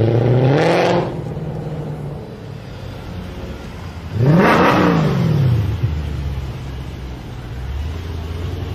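Mercedes-Benz C63 AMG V8 revving twice. The first rev is short and rising, in the first second. The second, sharper rev comes about four seconds in, rises and falls back. Between and after the revs the engine runs with a steady low note.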